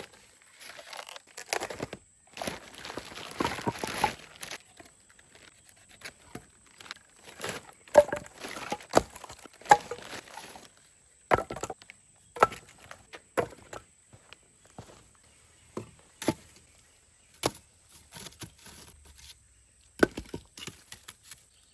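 Pieces of wood being handled and knocked together, a run of separate sharp wooden knocks and clatters, with a stretch of rustling a few seconds in.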